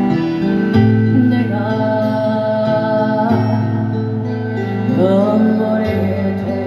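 A solo voice singing over a keyboard-style backing track with long sustained bass notes. The voice holds one long wavering note in the first half and slides up into a new phrase a little past the middle.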